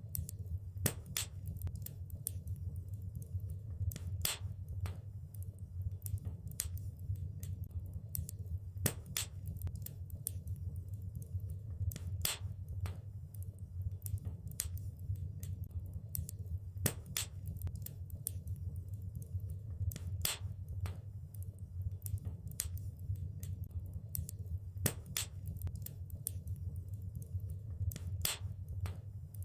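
Wood fire crackling: many irregular sharp snaps and pops, a louder pop every few seconds, over a steady low rumble.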